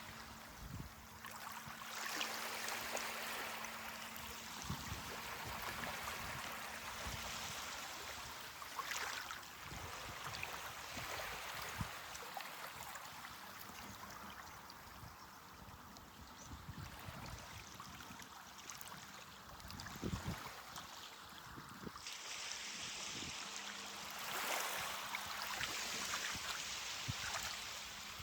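Ocean surf washing onto a beach, the water noise swelling and easing as waves come in and draw back.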